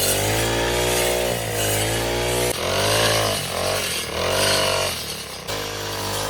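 Small engine running, its pitch rising and falling as it revs up and down, with abrupt cuts about two and a half and five and a half seconds in.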